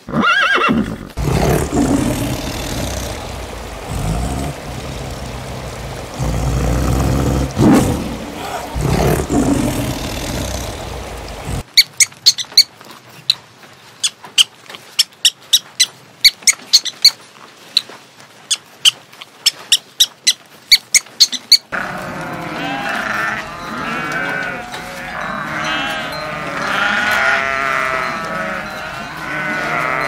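Low rustling and chewing noise of a grazing zebra, with a few louder bursts. About twelve seconds in, porcupines crunching food, a run of sharp, irregular cracks two or three a second, cutting off after about ten seconds into a herd of goats bleating over one another.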